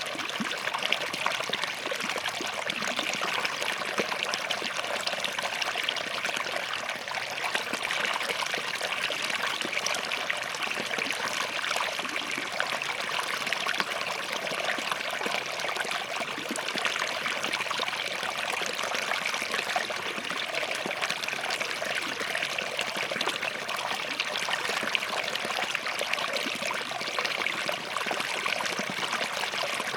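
Small forest stream running steadily between rocks, a continuous burbling trickle with small splashes.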